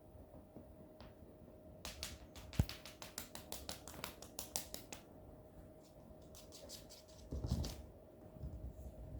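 Cats playing indoors: a run of rapid light clicks and patters for about three seconds, with one sharper knock early on, then a duller thump a couple of seconds later.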